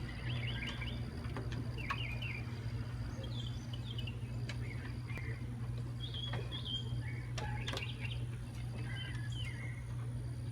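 Small birds chirping and twittering in short, scattered calls, over a steady low hum and a few sharp clicks.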